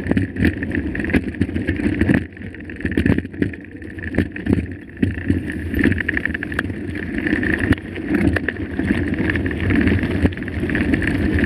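Mountain bike being ridden over a rough dirt trail: tyre noise and the bike rattling, with many short sharp knocks from the frame and chain over bumps.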